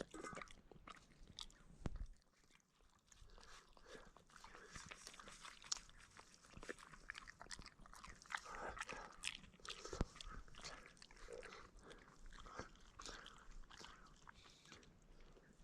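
A dog eating cold fried rice: faint, irregular chewing and small mouth clicks.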